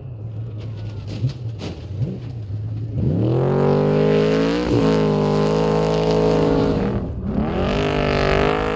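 Off-road trophy truck engine running low, then revving up hard about three seconds in and holding high revs, with a brief dip partway, falling off near the end and climbing again to high revs.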